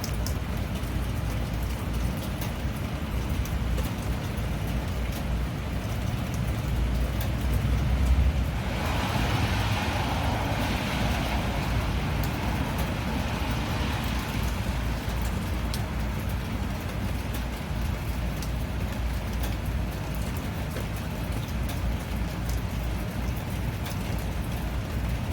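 Steady rainfall with a low rumble underneath and scattered drops ticking. About nine seconds in, a swell of louder hiss rises and fades away over several seconds.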